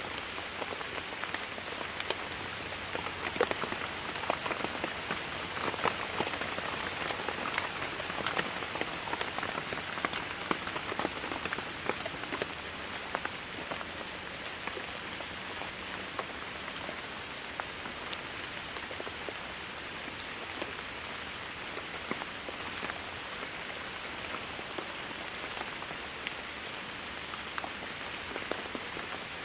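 Steady rain falling on a surface, a continuous hiss full of individual drop pats, a little heavier in the first half.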